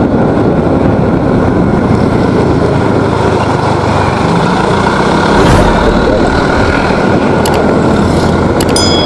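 Motorcycle on the move: a steady, loud rush of wind and road noise with the engine beneath it, and a few brief clicks near the end.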